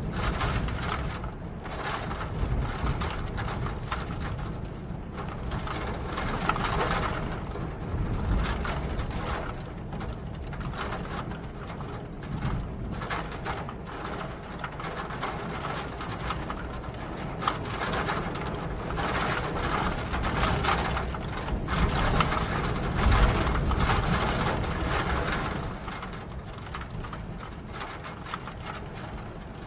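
Steady rain made up of many closely packed drop impacts, swelling and easing every few seconds.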